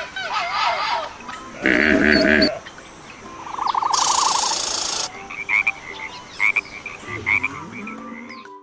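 A quick sequence of animal calls, among them croaking and a rapid trill, with a short loud burst of hissing noise about four seconds in.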